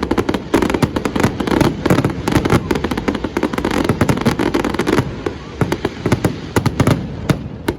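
Fireworks display going off in a dense run of sharp bangs and crackles, several a second, thinning out near the end.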